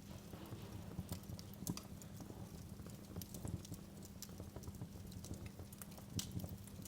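Wood fire crackling in a fireplace: irregular sharp pops and snaps, a couple of louder ones near two seconds in and near the end, over a low steady rumble.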